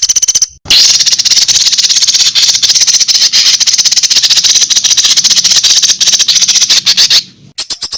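A songbird's fast, dry rattling trill of about ten notes a second, held for about six seconds after a short high trilled phrase and a brief pause.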